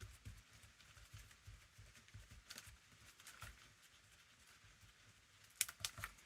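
Faint, rhythmic strokes of a brush applying Mod Podge to a journal cover, a few soft dabs each second, with a cluster of sharp taps near the end.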